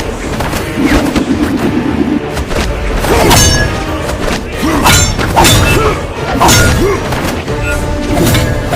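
Edited fight-scene sound effects: repeated heavy booms and thuds of blows and impacts over a dramatic background music score.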